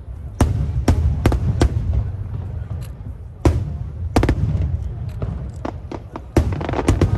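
Aerial fireworks shells bursting: a rapid, irregular string of sharp bangs, several close together, over a continuous low rumble of booms.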